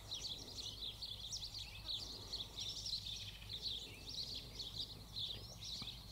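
Many small birds chirping and twittering together in a dense, continuous chatter of short high notes, over a faint low hum.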